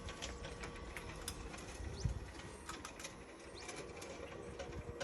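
Roof-mounted wheelchair pod's electric lift lowering its steel lifting bar, a faint steady whirr with scattered light clicks and one thump about two seconds in.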